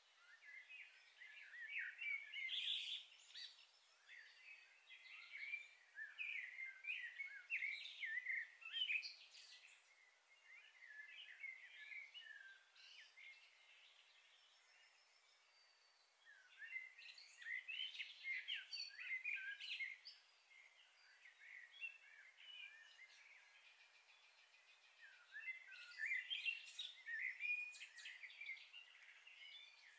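Small birds chirping and twittering in spells of several seconds, quieter in between.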